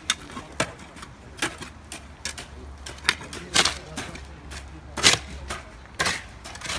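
Sharp knocks and clicks of uneven loudness, about two a second, over a low steady hum.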